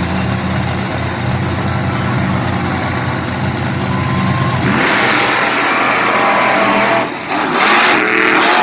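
Monster truck engines running with a steady low rumble, then about five seconds in a sudden, much louder surge as they rev hard to launch into a side-by-side race.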